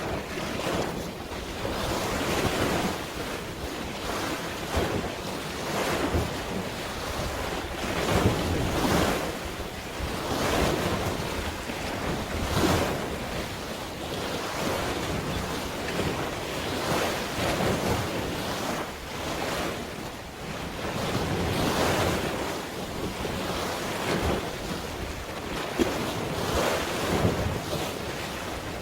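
Sea waves washing and surging every couple of seconds, with wind buffeting the microphone.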